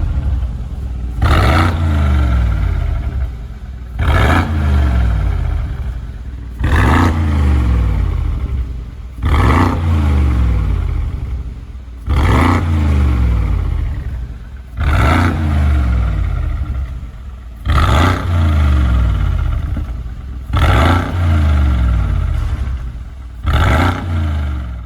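Mercedes-AMG G63's twin-turbo V8 through an Akrapovic valved full exhaust, revved again and again: about nine sharp revs, roughly one every three seconds, each dying away before the next. The sound cuts off suddenly at the end.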